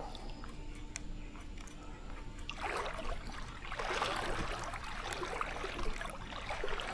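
Creek water running and splashing, quieter at first and fuller from about two and a half seconds in, with light clicking through it.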